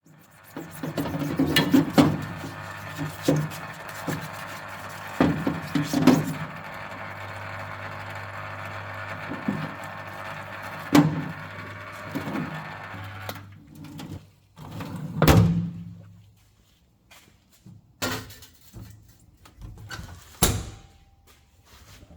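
A vapour blasting cabinet running with a steady hum and hiss for about the first thirteen seconds, with the aluminium fork clamp knocking about inside, then falling quiet. After that come separate knocks and clunks of parts being handled.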